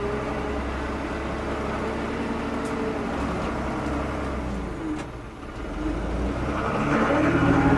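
Diesel engine of a 1975 Ford 550 backhoe running steadily, dipping briefly about five seconds in, then rising louder near the end.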